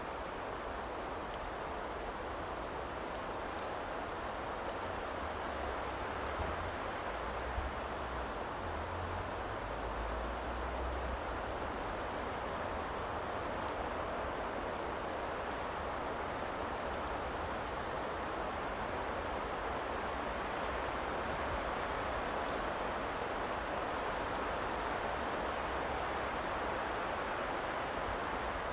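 Steady woodland ambience made as a background sound: an even rushing noise, with a low rumble for a few seconds near the first third and faint high chirps scattered through it.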